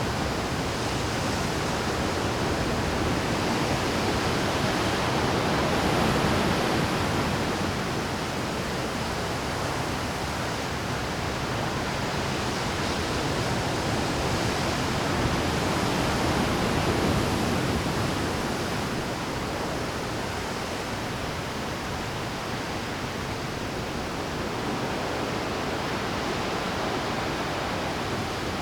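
Rough Pacific surf breaking and washing over shore rocks, a continuous rushing roar that swells twice, about 6 seconds in and again about 17 seconds in.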